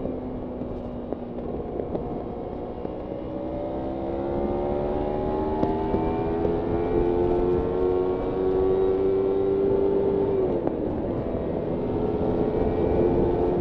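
Kawasaki Ninja 300's parallel-twin engine under way, its note climbing slowly as the bike accelerates, then dropping sharply about ten seconds in at a shift or throttle lift before rising again, with wind rush over it.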